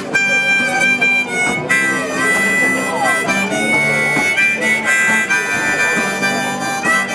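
Harmonica playing an instrumental break of long held and bending notes, over a strummed guitar accompaniment.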